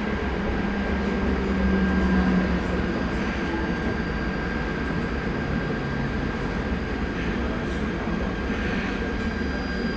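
Cologne KVB B80D light-rail car running on the track: its new traction converter gives a steady whine over the rumble of the old traction motors and wheels. A lower hum dies away about two and a half seconds in.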